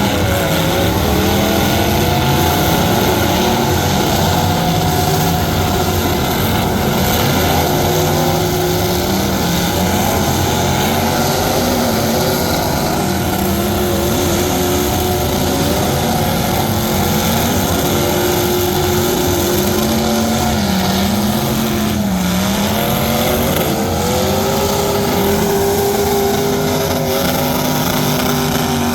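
Truck engines running loud and revving, their pitch climbing and falling again and again.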